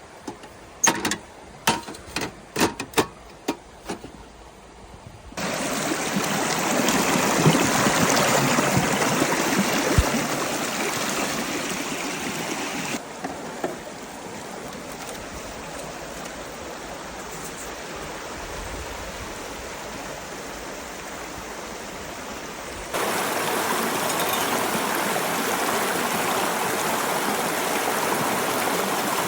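A run of sharp clicks and taps for about five seconds, then a river stream rushing over rocks, starting suddenly and later dropping and rising again in abrupt steps.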